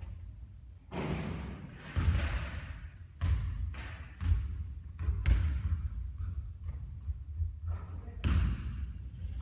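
A basketball bouncing on a court, about half a dozen separate hits spaced irregularly a second or more apart.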